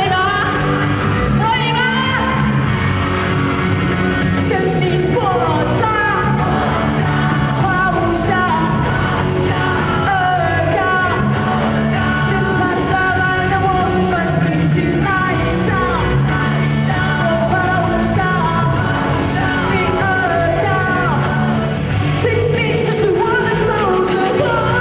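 Live pop-rock song with a lead vocal over a band: a steady repeating bass line and drums with regular cymbal ticks, played loud through a hall PA.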